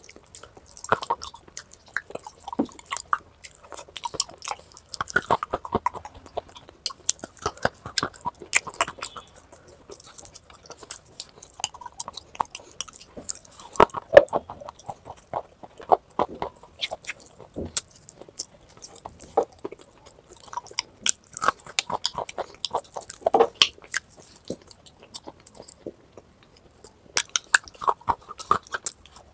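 Close-miked chewing and crunching of clay pot pieces coated in creamy paste: irregular sharp crunches, several a second, with the loudest bite about halfway through.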